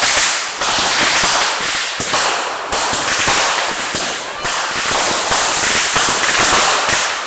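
Consumer fireworks going off in a loud, continuous barrage of rapid crackling bangs that never lets up.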